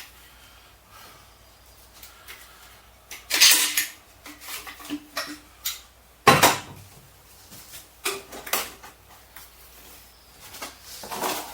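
Hard objects clattering and knocking as they are handled and set down: a few separate clatters, the loudest about six seconds in, with small clicks between and quiet gaps.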